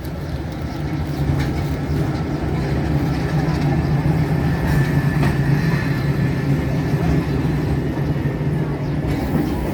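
The Tren de Sóller's electric narrow-gauge train running on the track: a steady low hum with rail noise that grows louder over the first second or so, then holds.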